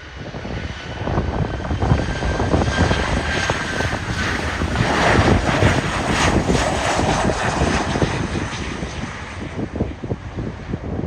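Airplane on landing approach passing close by. Its engine noise swells to a peak around the middle and then fades, with a faint high whine that drops slightly in pitch.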